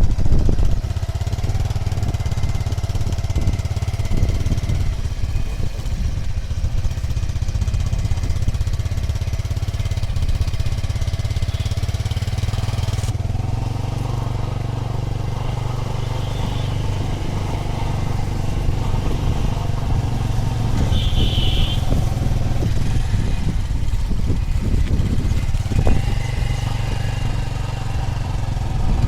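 A motor vehicle's engine running steadily, a continuous low hum with noise over it.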